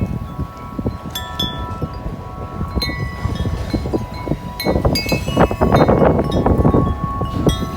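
A 36-inch Corinthian Bells wind chime ringing in strong wind, its tubes struck again and again and their tones ringing on and overlapping. A gust rushes over the microphone from about five seconds in, the loudest part.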